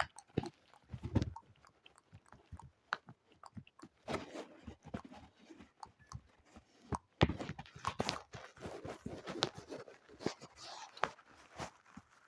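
Close-miked ASMR clicks and pops, irregular and crackly, with one sharp loud click about seven seconds in.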